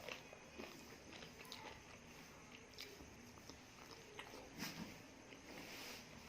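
Quiet, close-miked eating: soft chewing and wet mouth clicks, with a sharper click about two-thirds of the way through.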